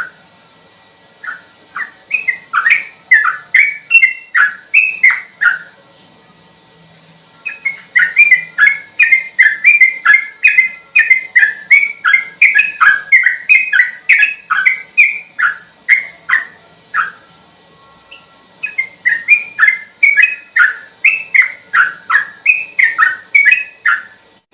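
Yellow-vented bulbul (trucukan) singing its fast "ropel" phrases. These are three long runs of quick, repeated, falling whistled notes, about three a second, with short pauses between the runs.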